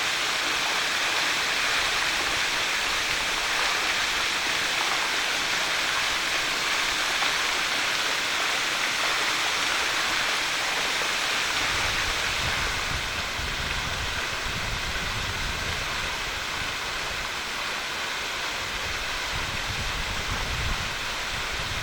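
Waterfall rushing steadily, a dense hiss of falling and splashing water. About halfway through, the sound shifts: the high rush softens slightly and a deeper uneven low rumble joins it.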